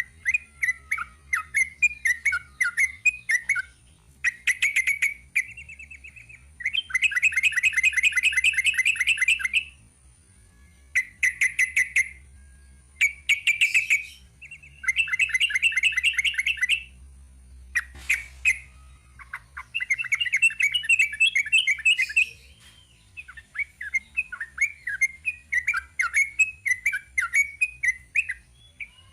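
Yellow-vented bulbul (trucukan) singing a long, rapid chattering song. Runs of quick notes alternate with bursts of fast, dense trills, with short pauses between phrases.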